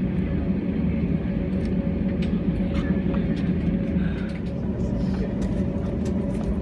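Airbus A320 cabin noise on the ground before take-off: a steady engine and air-conditioning drone with a low hum and a higher steady tone, and a few faint clicks.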